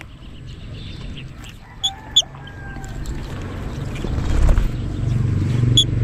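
Short, sharp high bird chirps, two about two seconds in and one near the end, over a low rumble that builds louder from about three seconds in.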